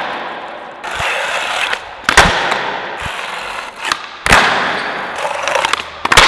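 Skateboard built with four trucks and bare bearings in place of wheels rolling on pavement: a loud rolling noise that swells and fades, broken by several sharp clacks of the board.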